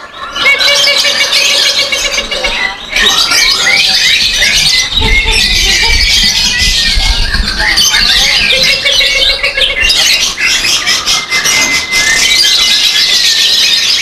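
Many caged birds, lovebirds among them, chattering and trilling at once in a dense, high-pitched chorus. A long held whistle comes through near the end, and a short low rumble comes about five seconds in.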